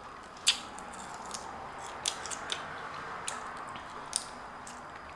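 Close-up chewing and gnawing on a lemon pepper chicken wing, with several sharp, crisp clicks as teeth work the meat off the bone.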